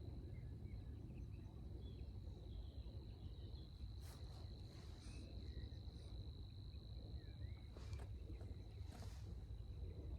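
Faint outdoor ambience: a steady high insect trill over a low rumble, with a few faint chirps and brief soft noises scattered through.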